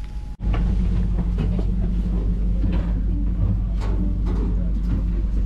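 Steady low rumble and hum of a standing passenger train, with footsteps, bag rustling and small knocks as passengers file through the car toward the exit door. After a brief dropout just after the start, the rumble comes in louder.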